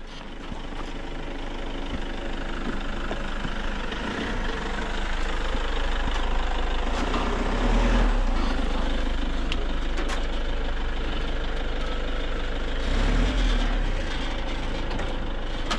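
A car's engine running steadily close by, its rumble building over the first eight seconds and then holding.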